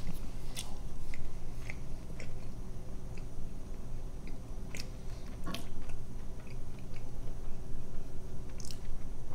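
A person chewing a mouthful of pizza and chicken wings, with scattered short wet mouth clicks.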